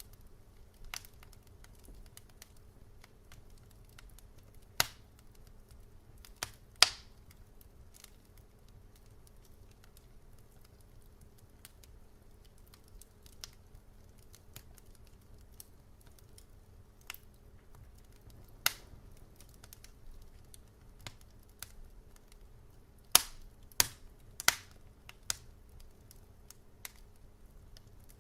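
Wood fire crackling in a fireplace: scattered sharp pops and snaps over a faint steady low background, with a quick cluster of loud pops a little past two-thirds of the way through.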